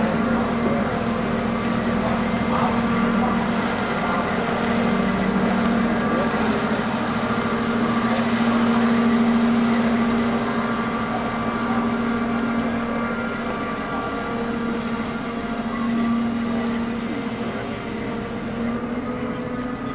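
Boat engine running steadily, a continuous drone that swells a little about halfway through.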